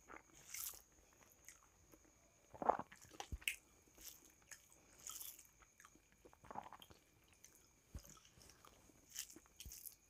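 Close-miked chewing of rice, dal and vegetable curry eaten by hand: irregular wet smacks and squishes, the loudest about three seconds in, along with the soft squish of fingers mixing rice on the plate.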